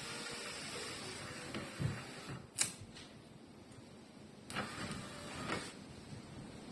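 A small electric motor whirs steadily, then stops with a sharp click about two and a half seconds in; two more clicks follow.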